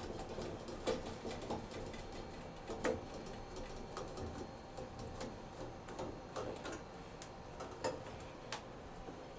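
Irregular light clicks and taps of shower-valve trim parts and hand tools being handled, with sharper knocks about a second in, at about three seconds and near eight seconds.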